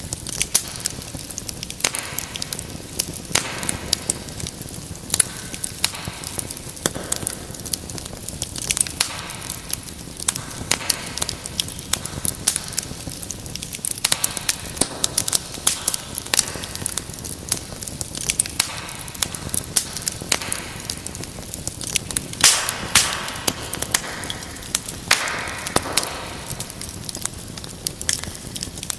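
Wood fire crackling in a fireplace: a steady low hiss dotted with many sharp, irregular pops and snaps, with a couple of brief louder hissing flare-ups near the end.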